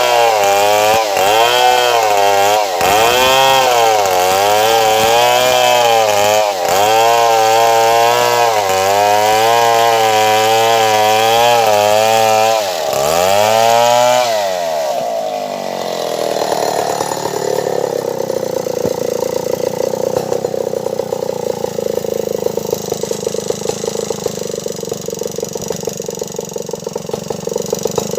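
Stihl 070 two-stroke chainsaw at full throttle cutting wood, its pitch dipping and recovering again and again as the chain loads up in the cut. About fourteen seconds in, the saw's note falls away, and an engine runs steadily at low speed for the rest.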